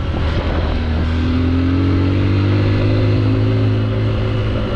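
Honda XR150's single-cylinder engine running under load, its pitch rising a little over the first couple of seconds and then holding steady.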